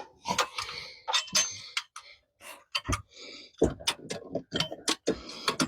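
Hand ratchet clicking in short, irregular runs as a spark plug socket is turned, with a few sharper metal knocks among the clicks.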